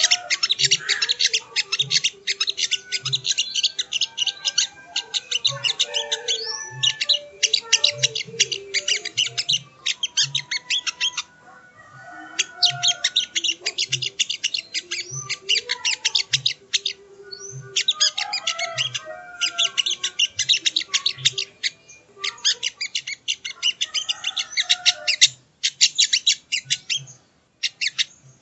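Sogon (sogok ontong), a spiderhunter, calling in long rapid bouts of sharp, high chipping notes with brief pauses. Softer lower calls and a faint low pulse a little faster than once a second sit underneath.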